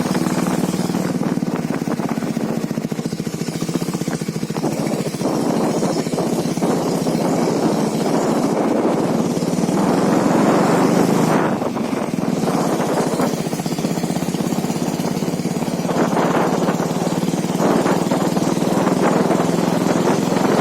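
Motorcycle engine running under way, with a steady pulsing note. It swells louder around ten seconds in, drops back suddenly at about eleven and a half seconds, and picks up again later.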